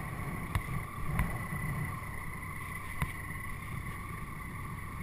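Wind rumble and buffeting inside a motorcycle helmet while riding a Triumph Tiger 800XC at road speed, with a steady high whine over it. Three short sharp clicks break in, two in the first second or so and one about three seconds in.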